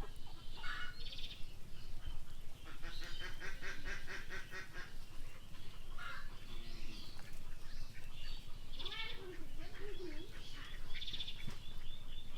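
Birds calling outdoors: several bouts of rapid chattering calls and a run of evenly repeated notes near the end.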